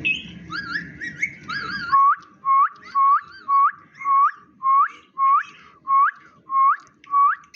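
Indian ringneck parakeet whistling. It starts with a couple of seconds of wavering, warbling whistles, then gives about eleven short whistles, about two a second, each ending in a sharp upward flick.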